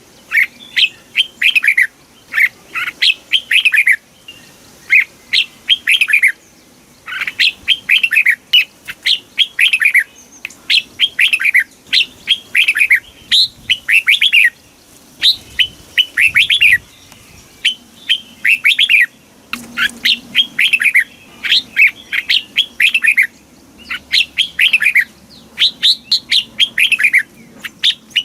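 Red-whiskered bulbul singing: phrase after phrase of quick, down-slurred whistled notes, each phrase a second or two long with short pauses between.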